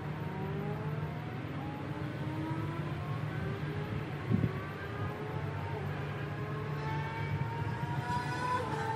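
A car engine accelerating through its gears, its pitch rising in long steps and dropping at each shift, over a steady low hum. There is a single knock about four seconds in.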